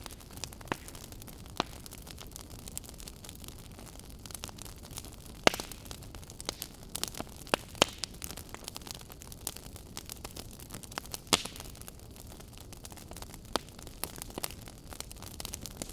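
Wood fire burning in a fireplace, crackling with irregular sharp pops over a steady low hiss; the loudest pops come about five and a half seconds in and again about eleven seconds in.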